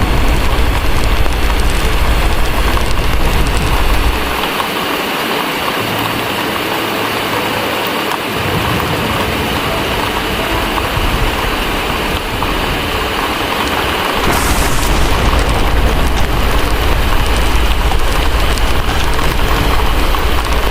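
Heavy rain pouring steadily under a deep, low rumble of distant thunder. The rumble fades out about four seconds in, leaving the rain alone, and rolls back in about two-thirds of the way through.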